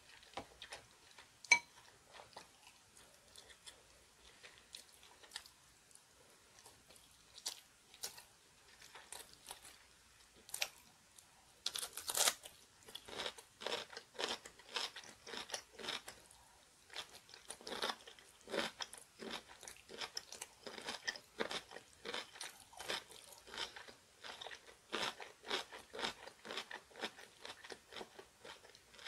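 Close-up crunchy chewing of whole ponytail-radish kimchi (chonggak kimchi), sparse at first, then steady crunching bites from about twelve seconds in. A single sharp clink about a second and a half in is the loudest sound.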